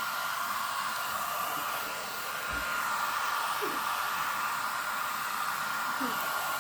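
Hair dryer running steadily with a constant high whine, blowing on a chilled newborn goat kid to dry and warm it.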